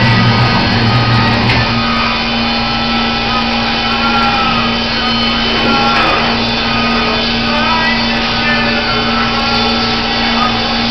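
Baker Products Super Streak band sawmill running with a steady mechanical hum and whine; the tone shifts about two seconds in.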